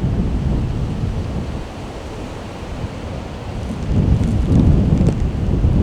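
Strong wind buffeting the microphone, a loud low rumble that begins abruptly and swells about four seconds in.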